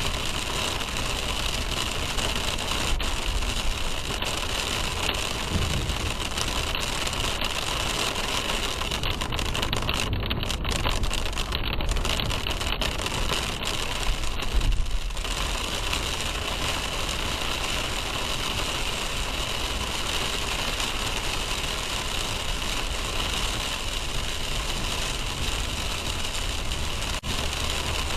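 Steady car engine and road hum with a constant hiss, heard from inside the car through a dash cam's microphone.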